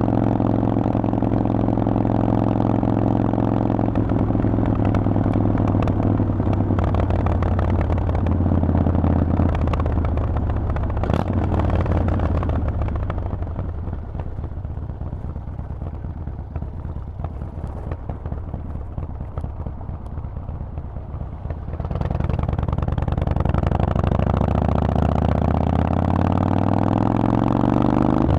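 Harley-Davidson Forty-Eight's 1200 cc V-twin running through a Vance & Hines exhaust while ridden: a steady engine note at first, then quieter for several seconds off the throttle, then the pitch climbs as it accelerates again in the last third.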